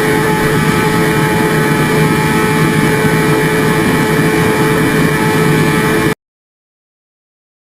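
Steady engine drone with a constant hum over a rushing noise, cutting off abruptly to dead silence about six seconds in.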